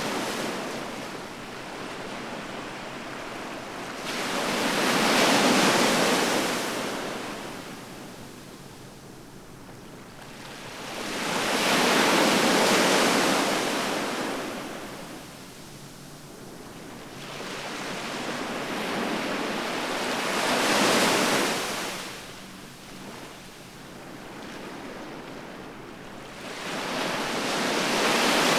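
Ocean waves breaking on the shore. Three surges of surf each swell up and fade away about every seven to eight seconds, and a fourth builds near the end.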